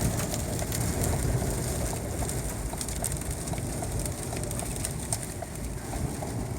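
Storm wind buffeting a parked car, heard from inside the cabin: a steady low rumble with many small ticks of blown sand and grit striking the body and windows.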